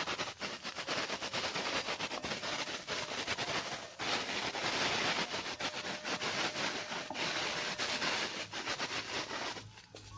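Sliced shallots frying in hot oil in a wok, a dense crackling sizzle, with a spatula stirring and scraping against the pan.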